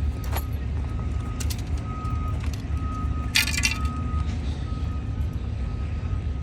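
A heavy vehicle engine runs with a steady low rumble while a backup alarm beeps over it again and again. There is a short clatter about three and a half seconds in.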